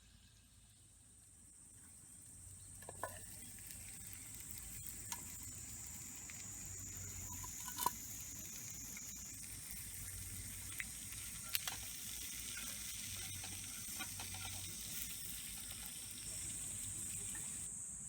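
Food sizzling in a cast-iron skillet. It grows louder over the first few seconds as the pan heats, with a few sharp pops.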